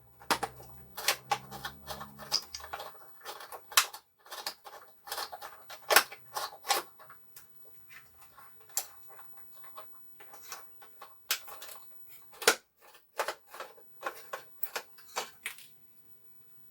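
Irregular small clicks and taps of a screwdriver and plastic parts as screws are taken out of a small RC helicopter's body shell. A low hum sounds under the clicks for the first three seconds, and the clicking stops near the end.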